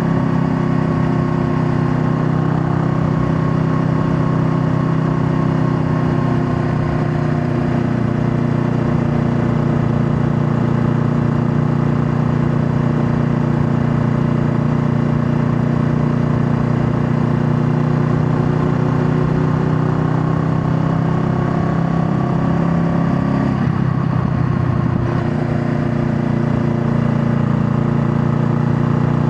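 Honda Rebel 500's 471 cc parallel-twin engine running under way at fairly steady revs, its note drifting gently. There is a brief change in the note about three-quarters of the way through, as on a shift or a throttle change.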